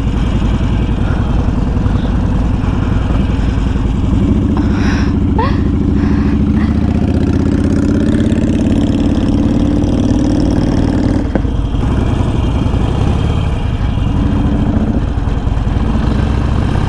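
Harley-Davidson Sportster 883's air-cooled V-twin running at low speed. From about four seconds in it picks up under throttle as the bike moves off, with a brief click near eleven seconds.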